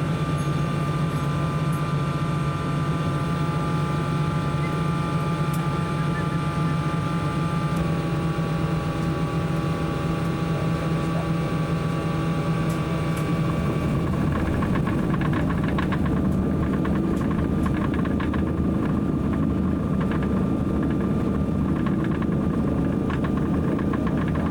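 A DC-3's twin radial piston engines running, heard from inside the cabin as a steady drone with a clear hum. About eight seconds in the tone shifts, and from about fourteen seconds in it grows rougher, with rattling through the airframe.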